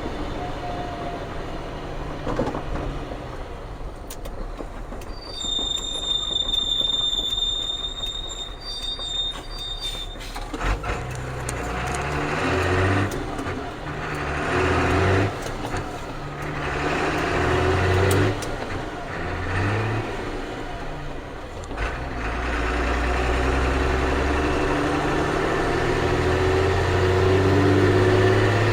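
Ford CF7000's 6.6-litre diesel engine heard from inside the cab while driving. A high steady squeal lasts about five seconds early on. Then the engine revs up and drops several times as the truck pulls away and shifts up through the gears, getting louder near the end.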